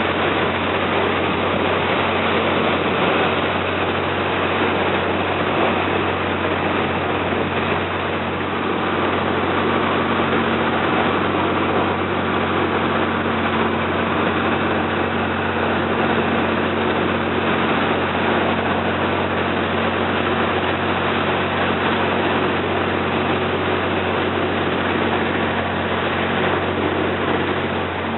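Slow boat's engine running steadily, heard on board: a constant low drone with an even hiss over it.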